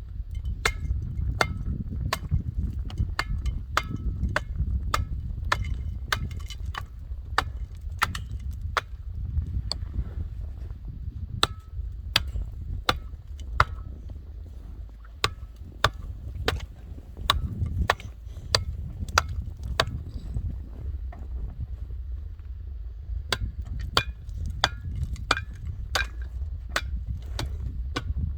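A long run of sharp knocks or strikes, about one to two a second and sometimes in quick clusters, over a steady low rumble.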